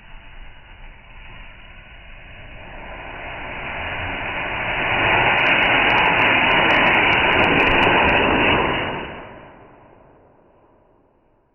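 Rushing noise of a firework rocket that builds over a few seconds, holds loud for about three seconds, then fades away. A few sharp clicks come at its loudest.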